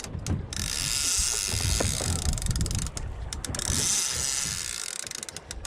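Saltwater spinning or conventional fishing reel being cranked against a hooked sailfish, with ratcheting gears, while wind buffets the microphone.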